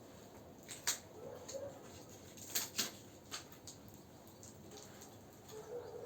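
Wood campfire crackling, with a few sharp, scattered pops, the loudest two close together about two and a half seconds in.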